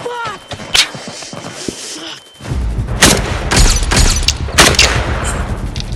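Battle gunfire sound effects: single shots spaced out at first, then from about halfway a heavy low rumble with a quick run of shots over it.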